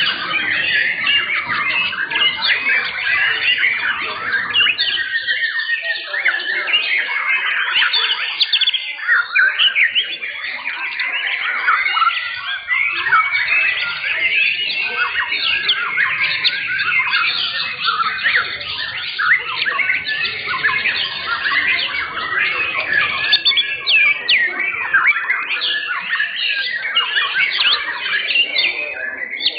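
Several young white-rumped shamas singing at once, a dense, unbroken chorus of rapid whistles and chirps.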